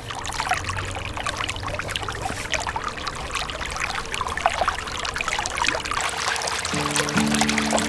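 Water from a small homemade water pump splashing and trickling in an irregular patter. Background music comes in near the end.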